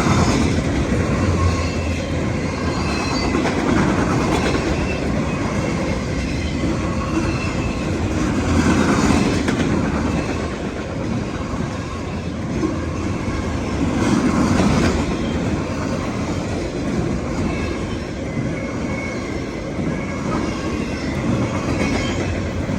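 CSX autorack freight train rolling past, a steady rumble with the clickety-clack of car wheels over the rail joints, swelling every few seconds as trucks go by.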